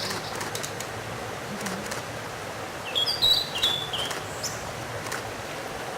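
Blue-and-white flycatcher singing: one short phrase of a few clear, high whistled notes, some sliding upward, about three seconds in.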